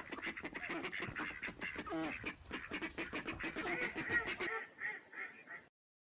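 A flock of waterfowl calling in a dense, rapid chorus of overlapping honks and quacks. Near the end it thins to a few separate calls, then stops.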